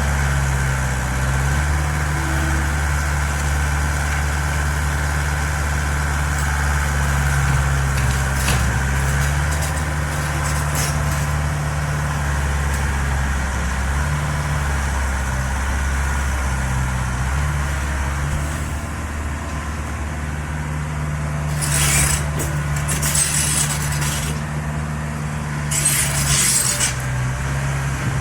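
Mini excavator's diesel engine running steadily, its pitch shifting a little now and then. Several short bursts of hissing noise come in the last third.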